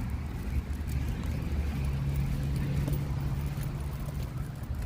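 A motor vehicle's engine running: a steady low rumble, with a low hum that holds from about two seconds in until about four seconds.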